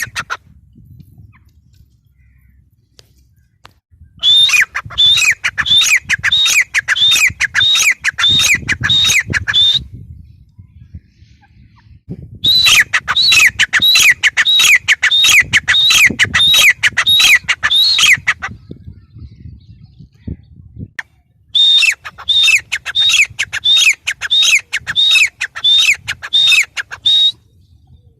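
Gray francolin calling: three bouts of shrill, rapidly repeated notes, about two a second, each bout lasting about six seconds with short pauses between.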